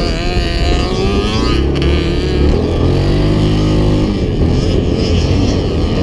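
Off-road vehicle engines running on the beach, one revving with its pitch climbing over the first second and a half, then a steadier lower engine note.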